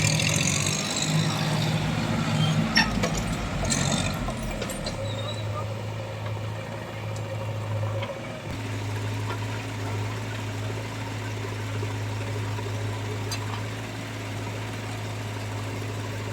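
Heavy machine's diesel engine running at a steady speed, with a couple of sharp knocks in the first few seconds.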